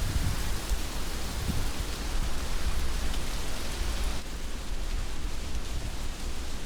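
Heavy rain falling steadily, a dense hiss of drops with a low rumble underneath; the hiss softens slightly about four seconds in.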